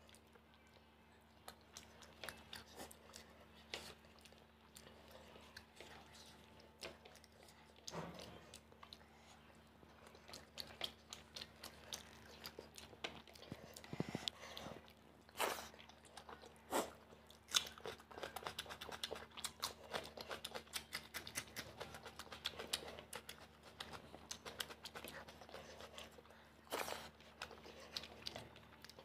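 Close-miked chewing and mouth sounds of a person eating rice and fish curry by hand, with many quick clicks and soft sounds of fingers mixing rice through the gravy on a plate, over a faint steady hum.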